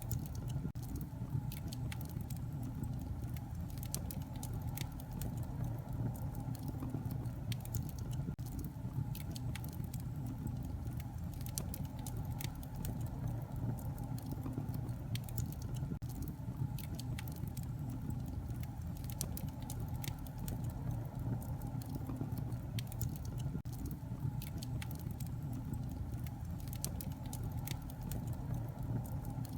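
Wood fire crackling steadily in a fireplace: a low, even rumble of flames with many sharp pops and crackles scattered throughout.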